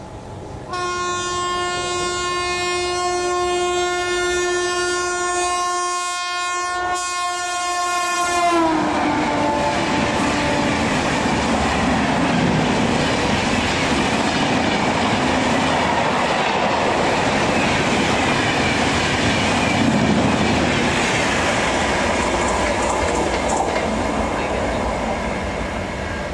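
Indian Railways WAP-7 electric locomotive sounding one long horn blast of about eight seconds, its pitch dropping as the locomotive passes. Then the loud rush and clickety-clack of its coaches running past at speed, easing off slightly near the end.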